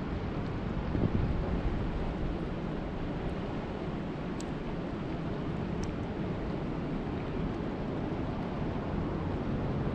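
Steady rushing of lake water and wind, heavy in the low end, with wind buffeting the microphone and a few faint ticks.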